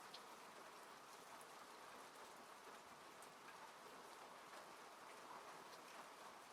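Faint, steady rain falling on a car, heard from inside, with scattered separate drop hits standing out.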